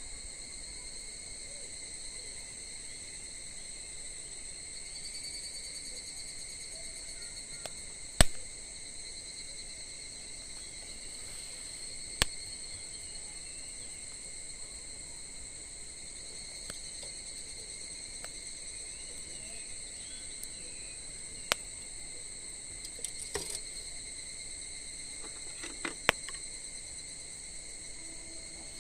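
Insects trilling steadily, with scattered sharp pops and crackles from burning firewood in a campfire. The loudest pop comes about eight seconds in.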